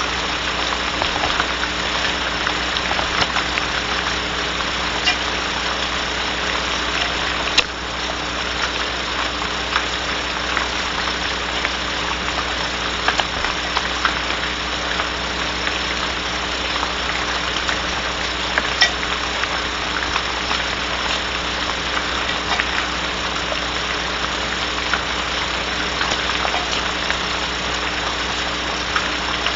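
Rain falling on a barn owl nest box: a steady hiss with many small scattered ticks, two sharper ticks about a third of the way in and past the middle, over a faint steady electrical hum.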